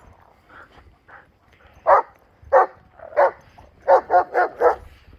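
A dog barking: three single barks about two-thirds of a second apart, then a quick run of four barks.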